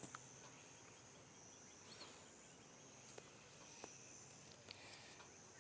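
Near silence: faint outdoor ambience with a thin, steady high-pitched insect buzz and a few soft clicks.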